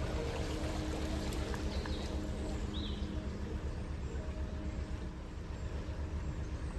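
Narrowboat's diesel engine running steadily under way, a low pulsing rumble.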